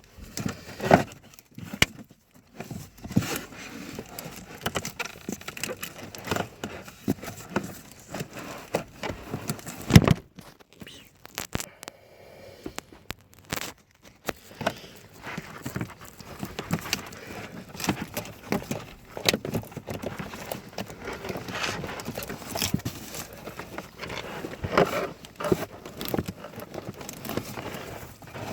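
Hands working plastic parts while changing a van's cabin pollen filter: irregular clicks, knocks and rustling, with a sharper knock about ten seconds in.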